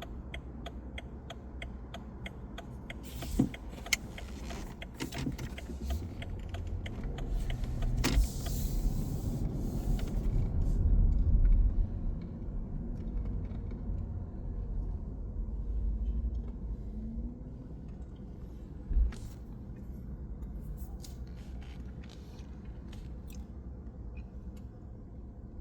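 Road traffic on a wet city street: a steady low rumble of passing vehicles that swells to a peak about halfway through, then eases off. A quick run of even ticks comes in the first few seconds, and a few sharp knocks stand out.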